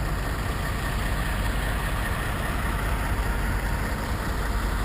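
Steady, unchanging drone of semi-truck diesel engines idling.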